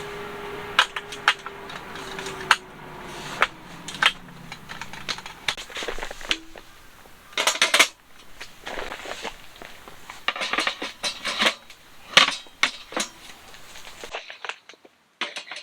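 Irregular sharp clicks, taps and knocks of hard items being handled, some coming in quick clusters. A faint tone slowly falls in pitch over the first few seconds.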